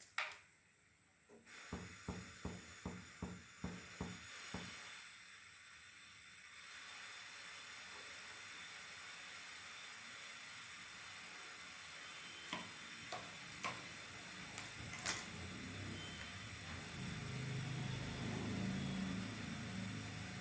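Vegetable oil poured into a frying pan, a short run of about eight glugs from the bottle, then the oil hissing steadily as it heats, with a few light clicks.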